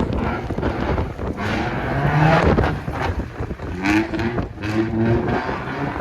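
Car engine revving hard in bursts, its pitch climbing about two seconds in and again around four seconds in, as a car does a burnout.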